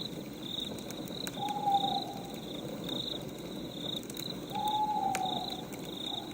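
Night nature ambience: crickets chirping in a steady pulse about twice a second, with an owl hooting twice, about a second and a half in and again about four and a half seconds in. Scattered faint crackles of a wood fire run underneath.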